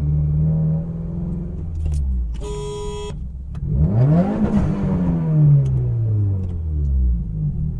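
Steady engine hum of traffic heard from inside a car, with a short car horn honk about two and a half seconds in. About a second later an engine revs up sharply and then winds slowly back down.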